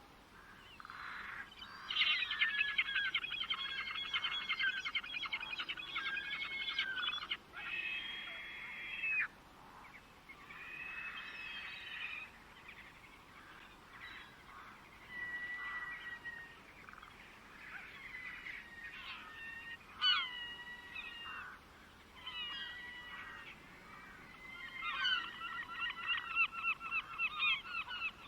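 Birds calling and singing: a long rapid chattering run of repeated notes about two seconds in, then scattered whistled and chirping calls, and another fast chattering run near the end.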